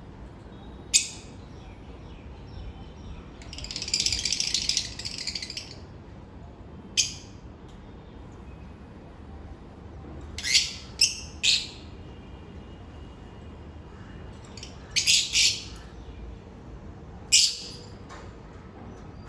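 African lovebirds calling: short, sharp, high-pitched calls scattered through, with a stretch of rapid chattering about four seconds in.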